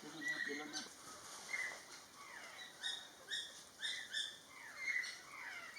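Songbird calling: a series of short, clear whistled notes and downward-sliding whistles, repeated several times.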